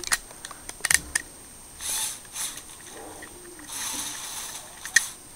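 Lego truck model being steered and handled: scattered light plastic clicks, with a sharp click near the start, another about a second in and one near the end, and a few short rustling noises in between.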